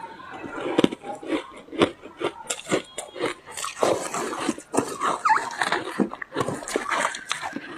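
Close-miked mouth biting and chewing ice: a dense, irregular run of crunches.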